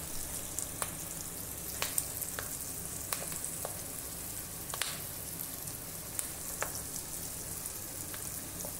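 Onion pieces frying in hot oil with turmeric and chilli powder in a steel kadhai: a steady sizzle with scattered sharp crackles.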